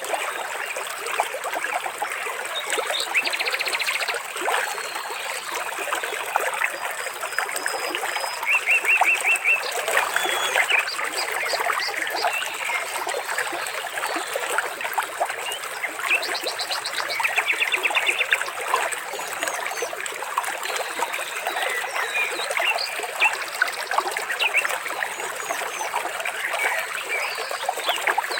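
Water trickling and splashing steadily, with birds calling over it: brief high chirps and short rapid trills that come back every several seconds.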